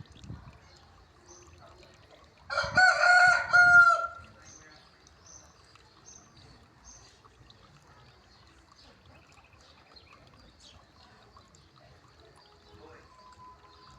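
A rooster crows once, about two and a half seconds in, a single call of about a second and a half; otherwise only faint background noise.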